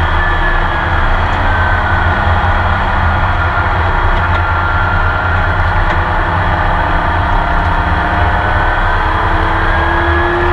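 Porsche 911 RSR's flat-six racing engine running hard at speed, heard from inside the cockpit with road and wind noise, its pitch climbing slowly near the end as it accelerates.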